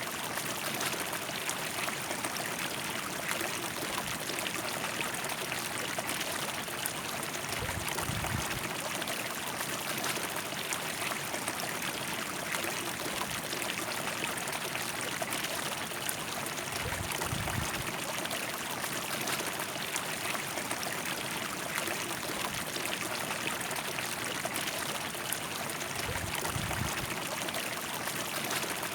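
A river flowing with a steady, even rush of water. Three brief low rumbles come about eight, seventeen and twenty-six seconds in.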